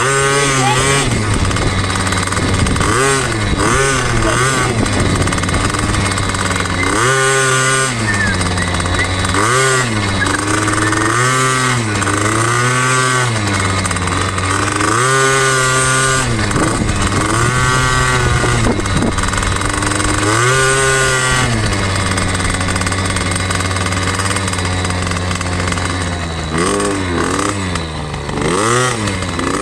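2006 KTM 50SX's small two-stroke engine being ridden, revving up and dropping back over and over as the throttle is opened and closed every couple of seconds, with a steadier stretch past the middle.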